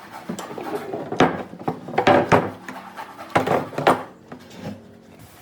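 Irregular knocks, taps and scrapes of hand work on wood, loudest in the middle and dying down near the end.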